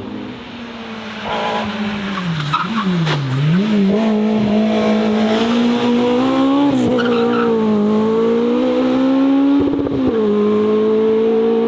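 Racing car's engine working hard. The revs dip sharply and pick up again about three seconds in, then climb slowly and steadily, and a gear change near the end drops the pitch.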